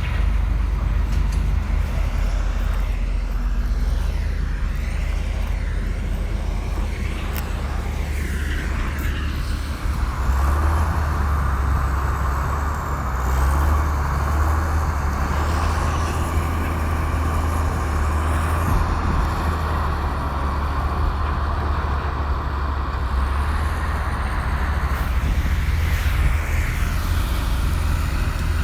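Komatsu bulldozer's diesel engine running steadily under work, with a higher, steady whine joining in about a third of the way through and fading near the end.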